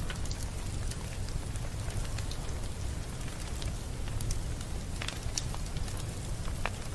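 Wood fire crackling in a fireplace: scattered sharp pops and snaps over a low steady rumble, with a few stronger pops in the second half.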